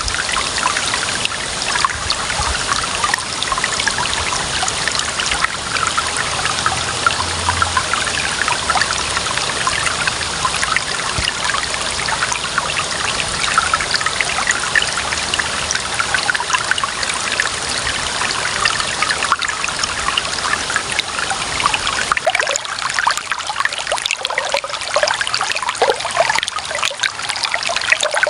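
Clear water running and trickling over stones, a steady splashing babble with many small droplet flickers. About 22 s in the low rumble falls away and the flow sounds lighter and more bubbly.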